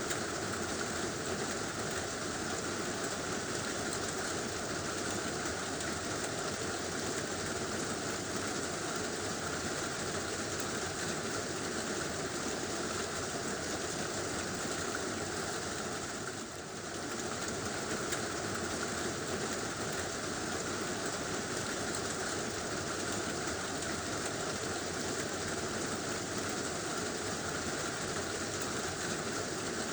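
Heavy rain drumming steadily on a tin roof, dipping briefly about halfway through.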